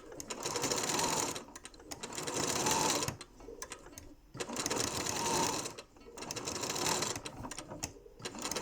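Janome Memory Craft 6700P computerised sewing machine stitching in spells of a second or two with brief pauses. It sews noisily, with the bobbin knocking and jumping in its case, which the owner complains of along with the hook turning out of place.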